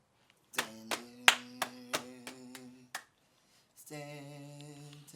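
A voice holds a sung note over sharp claps, about three a second. A lower hummed note follows from about four seconds in.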